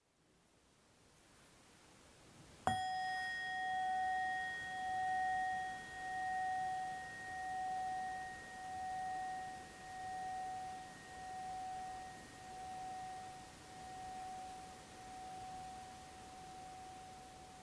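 A struck metal instrument with a bell-like tone, hit once a few seconds in and left to ring, fading slowly with a slow pulsing wobble in its loudness.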